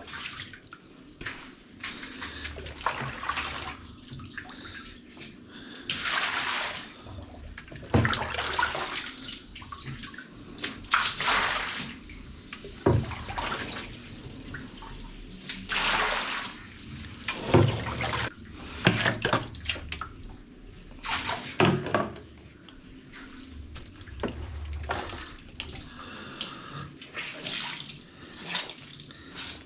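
Water splashing and running in irregular bursts as washing-machine parts are rinsed and scrubbed, with a few sharp knocks.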